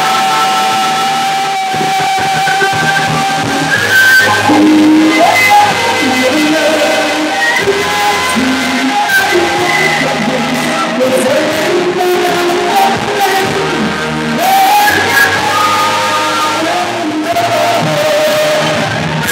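A singer performing a song with live band accompaniment, the voice gliding over sustained instrumental chords.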